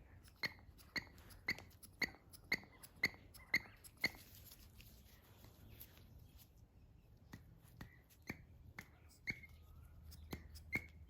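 Small squeaky clicks, about two a second for roughly three seconds, then a few scattered ones, from hand work on a hedge trimmer's small fuel-system parts.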